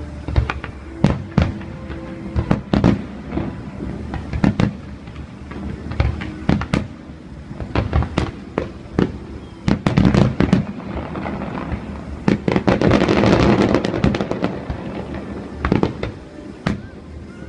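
Fireworks display: aerial shells bursting in sharp bangs at irregular intervals, with a dense run of crackling about three-quarters of the way through.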